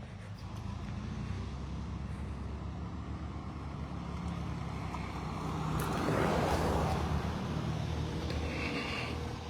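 A motor vehicle's engine running steadily, with a louder rush of noise building to a peak about six seconds in, like a vehicle passing close by.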